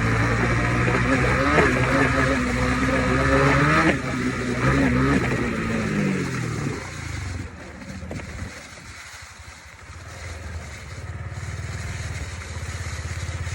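Four-stroke Honda dirt bike engine revving up through changes in pitch for about six seconds, then winding down as it slows. After a few quieter seconds a low, even running sound carries on to the end.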